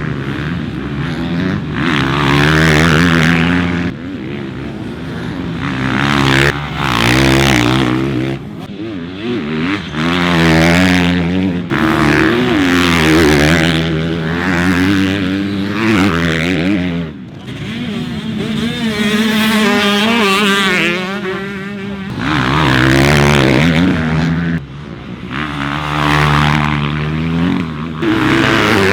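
Motocross bikes racing, engines revving up and dropping back again and again as riders accelerate and shift, with sudden changes every few seconds.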